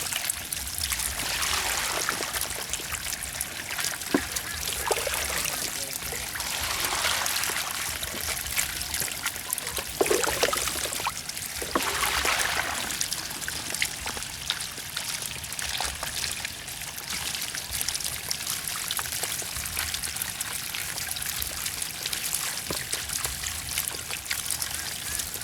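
Water running and trickling steadily, swelling louder a few times.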